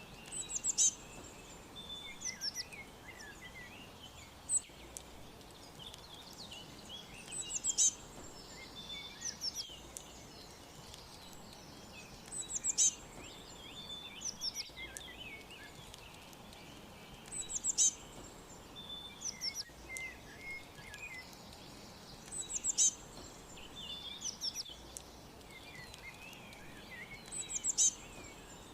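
Several songbirds chirping and trilling in high, quick calls, with a louder burst of calls about every five seconds over a faint steady background hiss.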